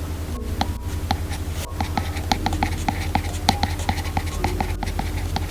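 Apple Pencil tip tapping and writing on an iPad Pro's glass screen: quick, irregular clicks, several a second, over a steady low hum.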